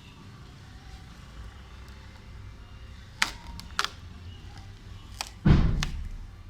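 A few sharp clicks, then a heavy thump about five and a half seconds in that dies away over a second, over a low steady rumble.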